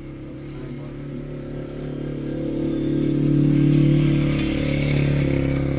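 A motor vehicle's engine running with a steady pitch, growing louder to a peak about four seconds in and then easing off a little.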